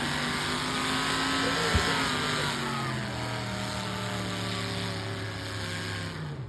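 Vehicle engine held at high revs during a burnout, with a wavering high squeal over a thick hiss; the revs slowly sink and the sound cuts off abruptly at the end.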